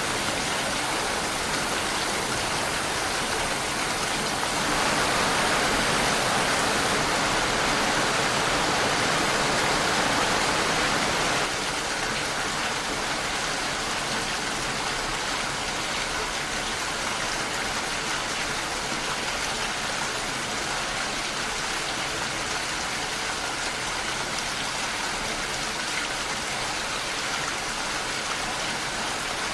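Steady rain falling, an even hiss of drops. It grows louder from about five seconds in, then drops back suddenly at about eleven seconds.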